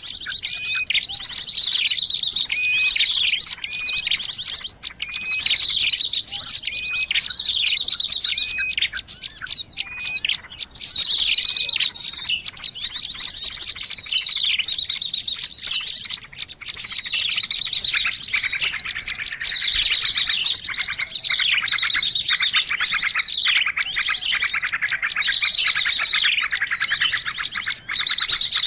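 Bird-lure recording of small songbirds: dense, high chirping and trills with short repeated notes and quick falling calls, several birds calling over one another without a break.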